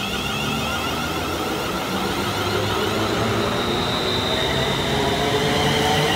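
Electric passenger train approaching through the station, growing steadily louder, with a high whine coming in about four seconds in.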